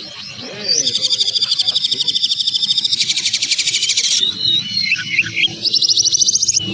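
Songbird song from a bird-mastering (masteran) recording: fast, dense, rattling high trills in rough rapid-fire bursts, with a new phrase every second or so and a few short whistled notes just past the middle.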